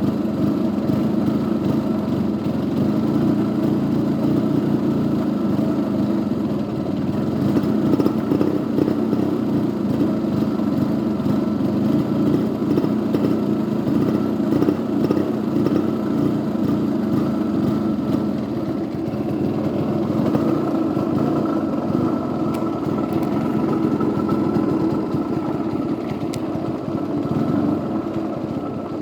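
Yamaha RD50's 50 cc two-stroke single-cylinder engine running at a steady speed, not revving up, until it cuts off near the end. The owner suspects a crankcase (primary compression) leak behind its refusal to rev.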